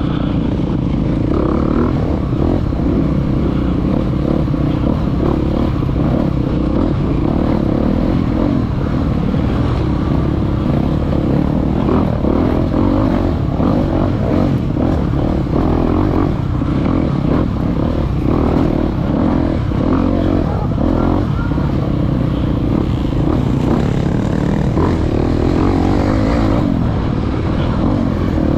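Dirt bike engine running steadily as the motorcycle is ridden, with many small knocks and rattles over the engine noise.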